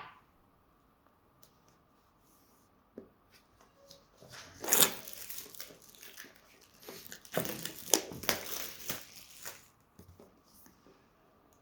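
Packaging being torn and crinkled by hand, in two bursts of rustling and crackling about four and seven seconds in, with a few light clicks between.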